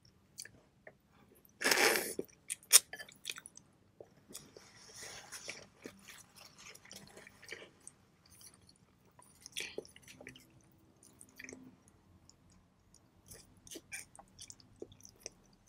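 Close-miked eating of pho noodles: wet chewing and scattered mouth clicks. A loud, noisy burst comes about two seconds in, with a sharp click just after it.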